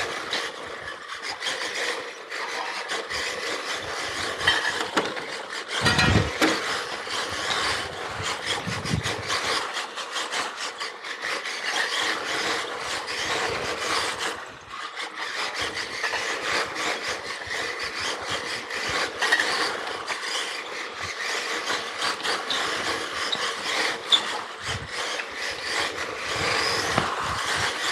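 Xray XB4 electric 1/10 RC rally car running flat out on pavement: a continuous mix of electric motor and drivetrain whir and tyres scrubbing and crackling on the surface, with a brief low thump about six seconds in.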